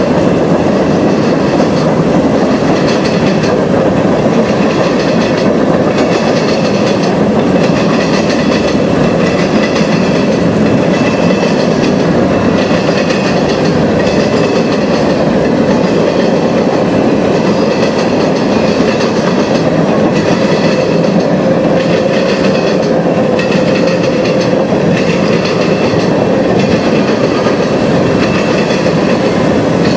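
A train's cars rolling past steadily, their wheels clicking over the rail joints.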